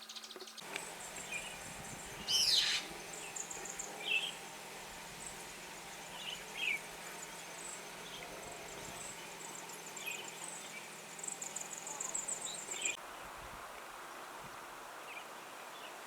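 Wild birds calling: scattered short chirps, with one loud sharp call about two and a half seconds in, over high thin trills that stop about 13 seconds in.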